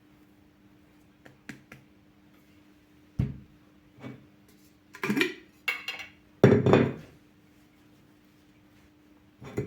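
Dishes and kitchenware being handled, clattering and clinking in a series of separate knocks, with the loudest clatter about six and a half seconds in. A faint steady hum runs underneath.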